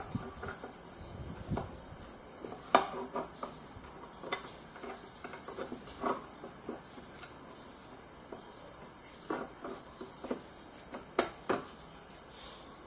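Irregular light metallic clicks and knocks of small metal parts and hand tools being handled while assembling a home-made mini lathe, with a louder pair of knocks near the end over a faint steady high hiss.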